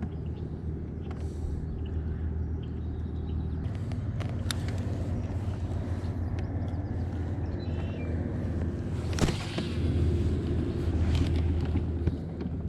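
Steady low engine drone, such as an outboard motorboat running on the lake, louder for a couple of seconds near the end, with a few sharp clicks.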